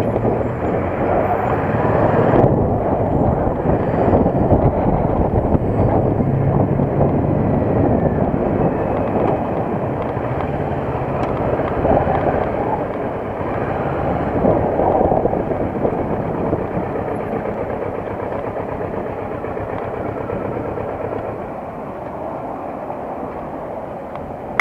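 Motorcycle on the move: a steady rumble of engine and rushing air that eases off slowly in the last third.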